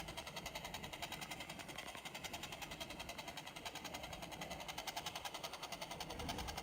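Toy helicopter's built-in electronic sound effect playing through its small speaker: a faint, rapid, even pulsing like a rotor's chop.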